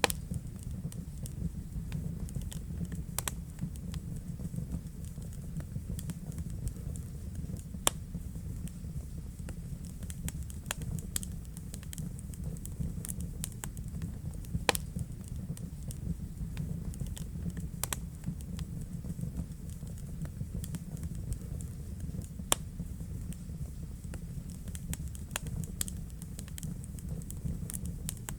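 Wood fire burning in a fireplace: a steady low rumble of the flames with irregular sharp crackles and pops, a few of them louder than the rest.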